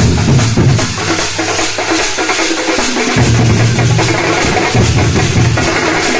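Nasik dhol ensemble drumming a fast, dense rhythm: sharp stick strokes over deep bass-drum booms that come in stretches.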